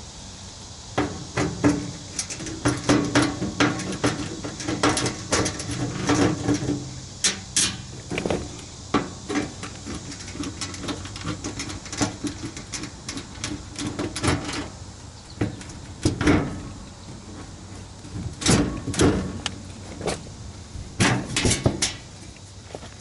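Repeated sharp clicks and metal knocks from hands and tools working on an air-conditioner condensing unit, with a low hum under the first several seconds.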